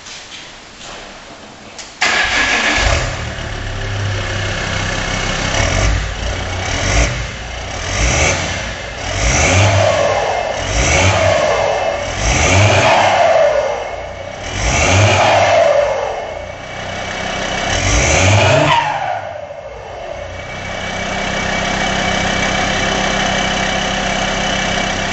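Alfa Romeo 156 2.4 JTD 20v five-cylinder turbodiesel with a straight-through exhaust starting up about two seconds in, then revved in about seven quick blips before settling to a steady idle.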